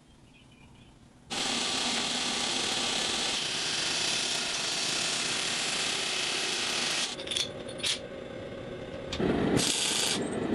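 A power tool, likely a grinder working the blade, starts suddenly and runs with a steady, hissing noise for about six seconds. It is followed by a few short sounds and a brief burst near the end.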